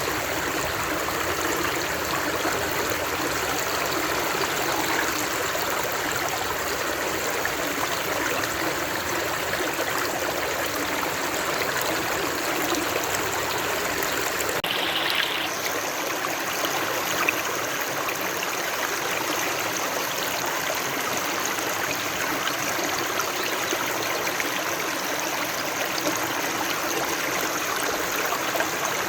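Steady rushing of flowing water, like a stream. Its character shifts slightly and abruptly about halfway through.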